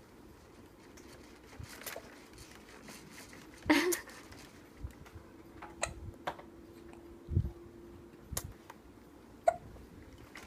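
A baby making short, scattered mouth noises: sharp clicks and brief hiccup-like squeaks a second or two apart, the loudest about four seconds in and another near the end, with quiet in between.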